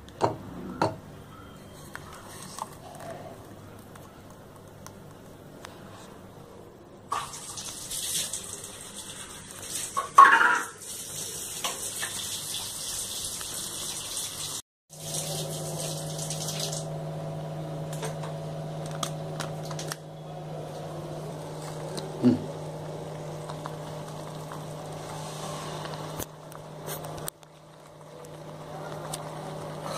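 Tomato puree sizzling in hot oil in an aluminium kadai for about seven seconds, with a sharp knock in the middle. After a break the sizzle is gone, leaving a steady low hum with a few faint clinks.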